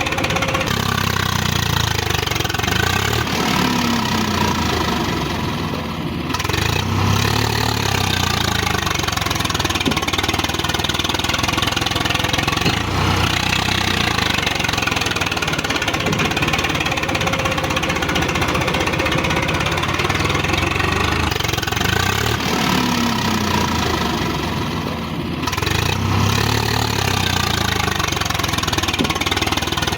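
Tractor diesel engine running steadily, its note swelling and easing in slow waves, with a brief dip about six seconds in and again near twenty-five seconds.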